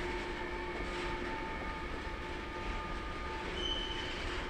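A train running past on the line: steady running noise with several high, steady whining tones over it, and a brief higher squeal about three and a half seconds in.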